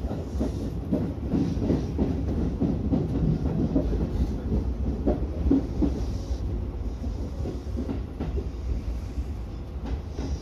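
Electric commuter train running into its terminus, heard from inside the driver's cab. A steady low rumble is broken by irregular clacks of the wheels over the switches and rail joints, most frequent in the first half.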